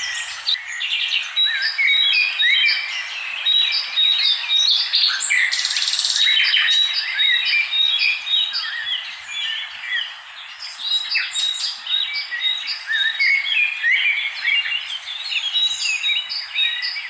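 Many birds chirping and calling over one another in a dense chorus, with a quick repeated high note running through much of it. A brief hiss comes about six seconds in.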